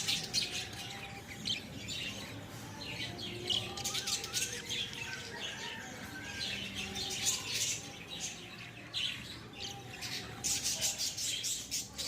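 A colony of lovebirds chirping and chattering without a break, many short, high-pitched calls overlapping.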